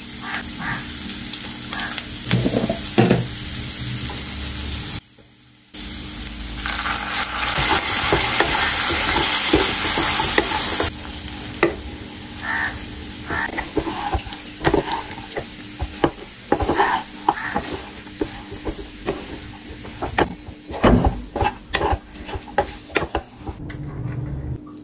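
Food sizzling and frying in a hot pan for chicken fried rice, stirred with a spatula that scrapes and clanks against the pan again and again. The sizzle breaks off briefly about five seconds in and is loudest just after. The second half is mostly quick scrapes and knocks.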